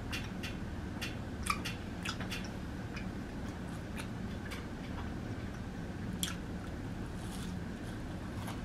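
Close-up chewing and crunching of crispy Flamin' Hot Cheeto-coated fried food, with a quick run of sharp crunches in the first couple of seconds and a few more scattered after.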